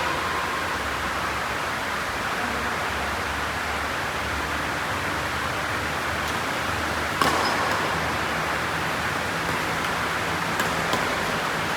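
Steady rushing noise, with one sharp knock about seven seconds in and two faint clicks near the end.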